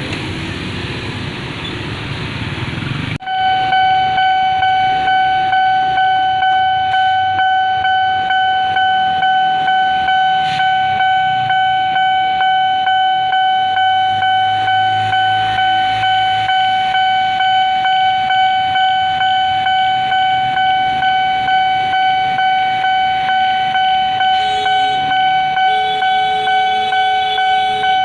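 Railway level-crossing warning alarm switching on about three seconds in: one steady high tone pulsing about one and a half times a second, the signal that a train is approaching. Near the end a second, lower tone joins it.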